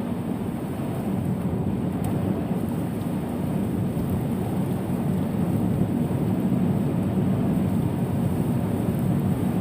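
Steady low rumbling noise of vehicle travel in heavy rain, slowly building a little, with no distinct knocks or voices.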